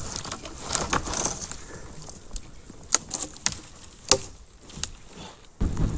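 Small wood campfire crackling, with sharp irregular pops from the burning dry sticks. Near the end the sound cuts suddenly to a loud, steady, deep rushing noise.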